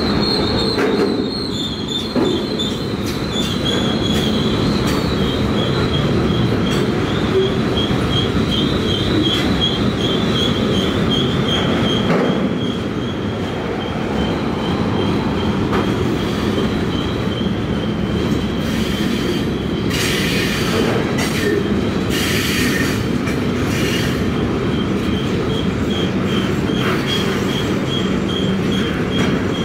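Freight cars of a 175-car freight train rolling past on a curve: a steady heavy rumble of wheels on rail with a high, pulsing wheel squeal over it. A few louder clacks come about two thirds of the way through.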